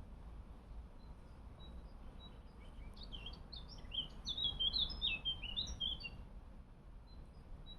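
A songbird singing: a quick run of varied high chirping notes lasting about three seconds in the middle, with a few single high chips before and after.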